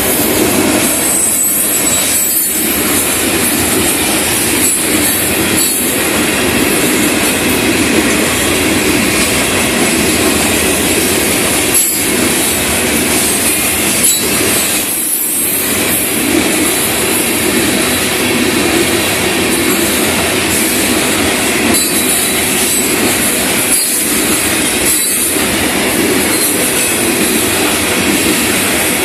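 Florida East Coast Railway freight train's cars rolling past, a steady loud noise of steel wheels on rail with brief dips every few seconds.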